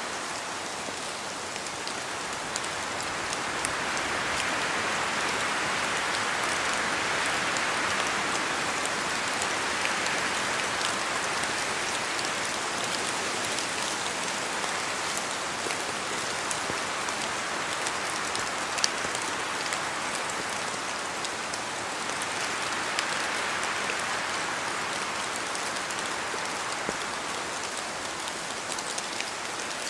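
Steady rain and wind in a forest, with many separate drops falling from the trees. The rushing noise swells louder a few seconds in and again about two-thirds of the way through.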